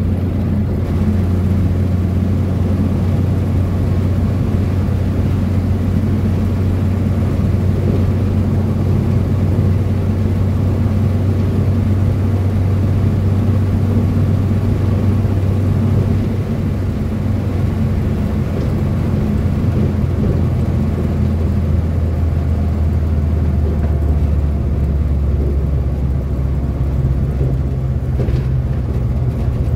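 Renault 4's four-cylinder engine droning steadily while driving, heard from inside the car. The drone drops in pitch about halfway through and again near the end as the car slows.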